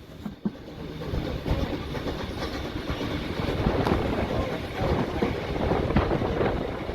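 Train rolling along the track, wheels clicking and knocking over the rail joints. The noise builds over the first second or two, then runs on steadily.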